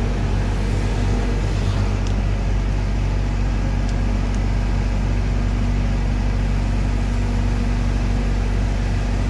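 A vehicle's engine running steadily at idle: a low, even hum with no change in pitch.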